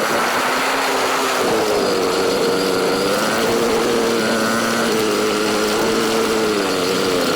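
Dirt bike engine running under way, its pitch stepping up about a second and a half in and then rising and falling gently with the throttle.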